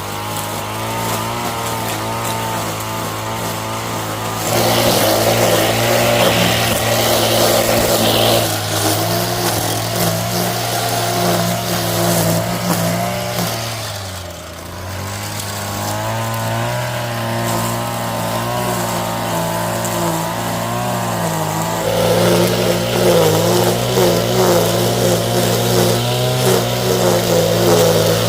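An engine running steadily under load. It slows and quietens about 14 seconds in, then picks back up.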